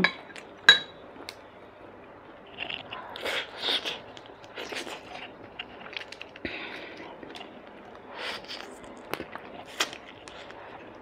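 A person chewing and eating soft braised tuna with rice, with wet mouth sounds, plus a few sharp clicks: one about a second in and two near the end.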